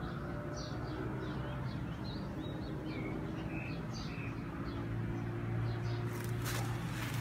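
Small birds chirping, a scattered series of short high calls, over a steady low hum. Near the end comes a burst of rustling noise.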